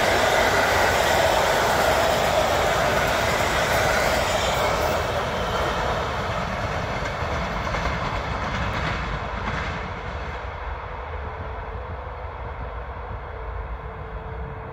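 Passenger coaches of an express train hauled by an EP07 electric locomotive rolling past and away. The wheel and rail noise fades over about ten seconds as the train recedes, leaving a faint steady hum.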